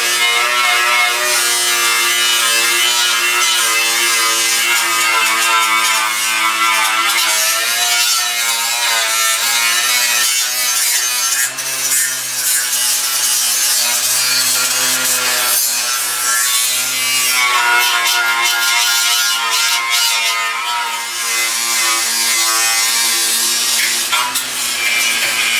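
Cordless angle grinder running continuously and grinding rust and metal, its motor whine dipping and recovering as it is pressed into the work.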